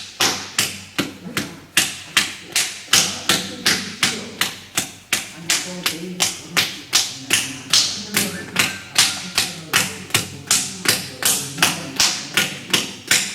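A lump of stiffened pottery clay being beaten over and over, about three sharp, resounding strikes a second, to soften it before throwing.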